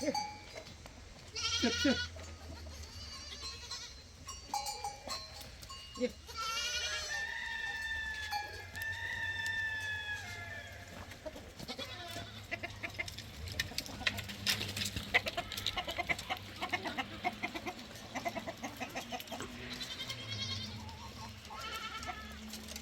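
Goats bleating now and then in a herd, short wavering calls, with one long rooster crow near the middle. Scattered clicking runs under them for several seconds after the crow.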